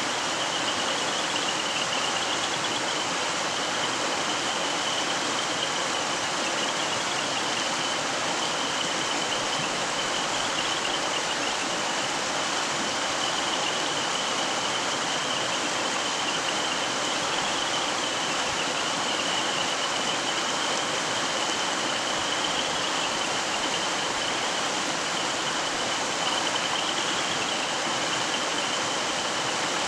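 Mountain stream flowing over rocks: a steady, even rush of water. A thin, steady high-pitched tone runs faintly through it.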